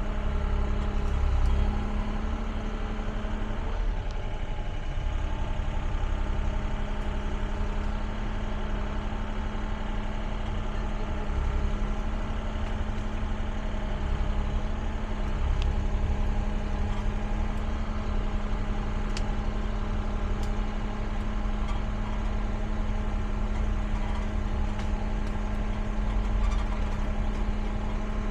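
Caterpillar excavator's diesel engine running steadily with a constant low hum, its rumble swelling slightly every few seconds as the machine works.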